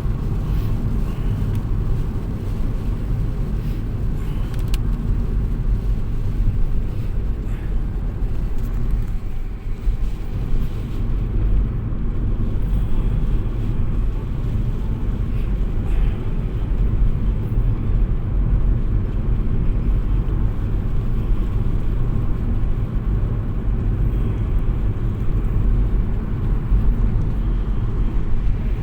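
Steady low rumble of a four-wheel-drive car being driven, engine and road noise heard from inside the cabin.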